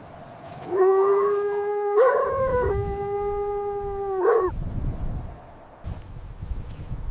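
A canine howling: one long howl of nearly four seconds, holding a steady pitch apart from a brief waver about two seconds in. Low rumbling noise runs under its end and after it.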